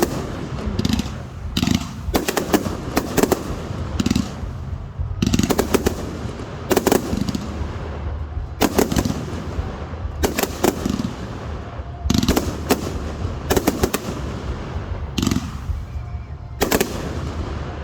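Aerial fireworks going off in a steady barrage: sharp bangs about every second or so, some in quick runs of two or three, over a continuous low rumble.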